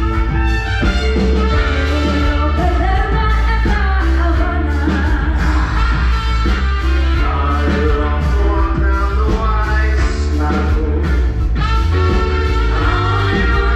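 Band music with a singer, loud and steady, with a heavy bass line.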